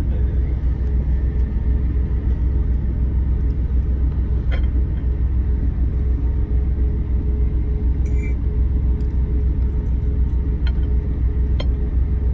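Truck engine running, a steady low rumble with a constant hum, heard inside the cab. A few faint clicks sound over it.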